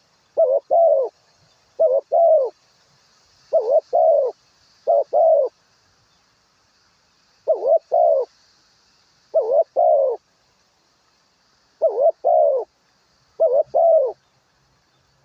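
A bird calling in repeated pairs of short arching, hooting notes, one pair about every two seconds, eight or nine pairs in all with a longer gap in the middle.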